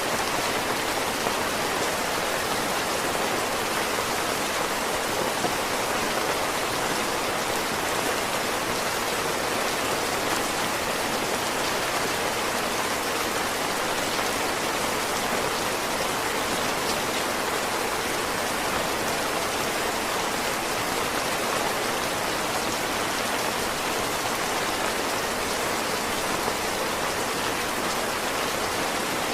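Heavy rain falling steadily in a dense, even patter, with no change in strength.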